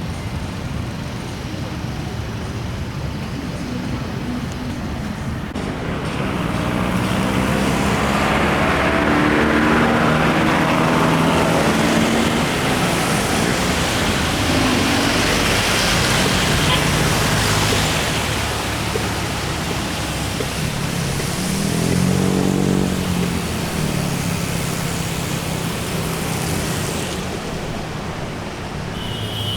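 Road traffic: vehicles passing with engine and tyre noise, swelling loudly about six seconds in and staying strong until near the end.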